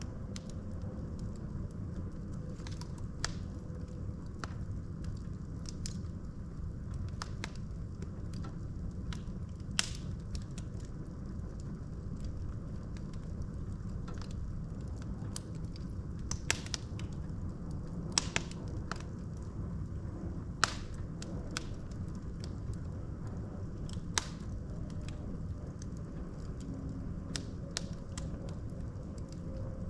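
Wood fire burning in a fireplace: a steady low rumble of the flames with irregular sharp crackles and pops from the burning logs, a few louder snaps scattered through.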